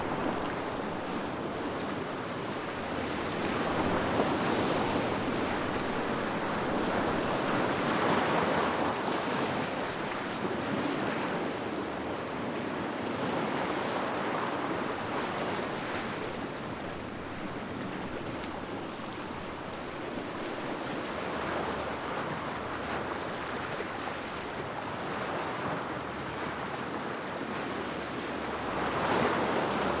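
Sea waves breaking and washing onto the shore, the surf swelling and easing every few seconds, with a louder surge near the end. Some wind noise on the microphone.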